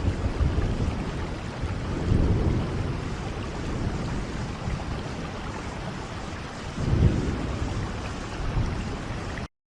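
Steady heavy rain with low thunder rumbling beneath it, swelling about two seconds in and again around seven seconds. The sound cuts off abruptly just before the end.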